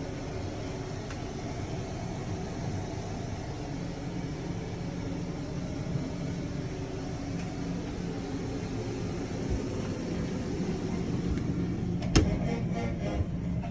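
A steady low mechanical hum, with one sharp click about twelve seconds in.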